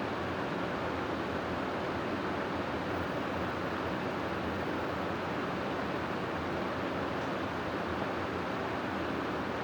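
Steady wind ambience for sleep: an even, unbroken rushing with no gusts or swells.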